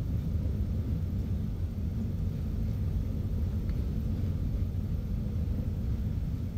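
Vande Bharat Express electric multiple-unit train running, a steady low rumble with a faint hiss above it.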